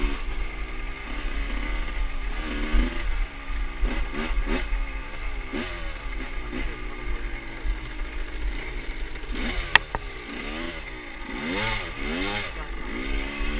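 Motorcycle engine revving up and down repeatedly as the bike is ridden, its pitch rising and falling over and over. A single sharp click about ten seconds in.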